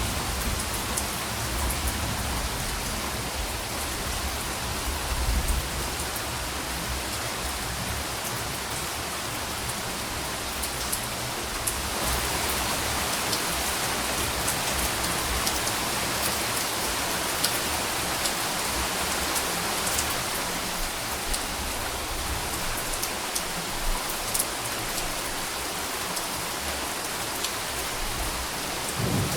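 Steady rain falling, an even hiss with scattered drop ticks and a low rumble underneath in the first few seconds. The rain grows a little heavier about twelve seconds in.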